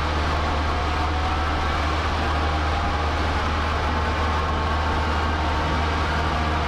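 Cessna 152's four-cylinder Lycoming engine and propeller running at a steady drone, heard from inside the cockpit, with no change in pitch or level.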